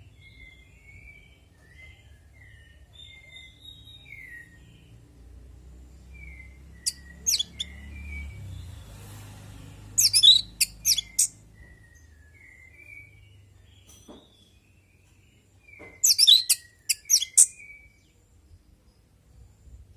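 Orange-headed thrush singing: soft, short whistled notes keep coming throughout, broken three times by loud, rapid bursts of sweeping notes.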